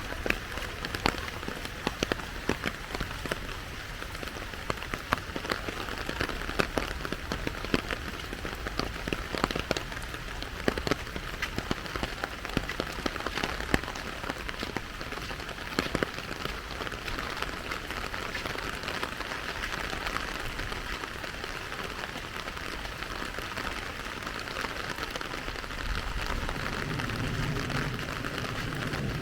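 Steady rain falling, with many sharp close drop ticks through the first half. A low rumble comes in near the end.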